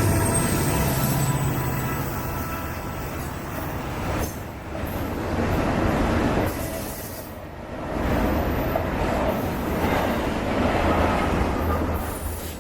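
Freight train rolling past, its steel wheels running on the rails in a continuous clatter that dips and swells in loudness.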